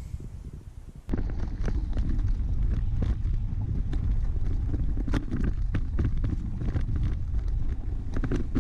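Wind rumbling on the microphone while a bike is ridden over a sandy trail, with frequent clicks and rattles. It starts abruptly about a second in.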